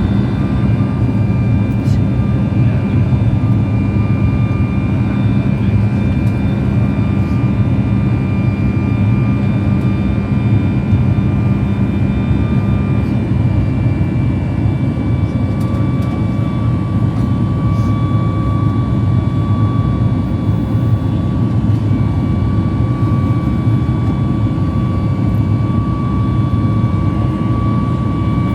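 Cabin noise of a Boeing 737 MAX 8: its CFM LEAP-1B jet engines and the airflow make a loud, steady rumble with a thin engine whine on top. About halfway through, a low hum stops and the whine shifts slightly in pitch, as when the engine power setting changes.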